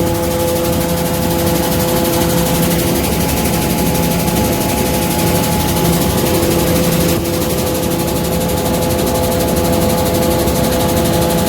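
Tractor-driven destoner grain-cleaning machine running steadily: a loud, constant mechanical drone with a steady whine over a continuous hiss.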